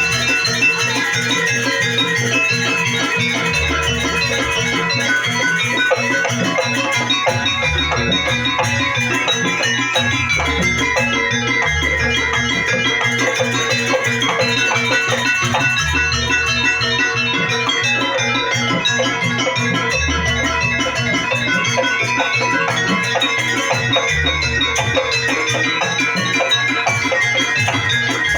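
Live jaranan accompaniment: a gamelan-style ensemble of drums and metal percussion playing a dense, steady rhythm, with deep low strokes every few seconds.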